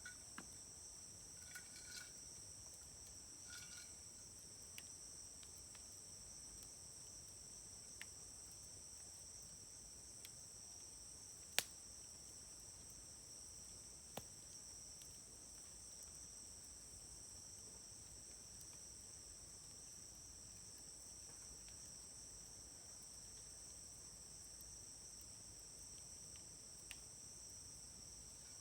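Steady high-pitched insect chirring in two close pitches, with sparse sharp pops of firewood burning in a campfire; the loudest pop comes just before the middle, another a couple of seconds later, and a few faint ones scattered through.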